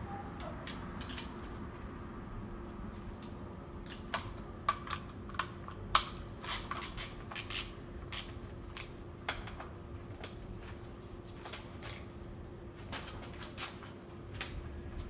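Hand tools and small metal parts clicking and clinking irregularly during work on a scooter oil change, the sharpest clink about six seconds in, over a steady low hum.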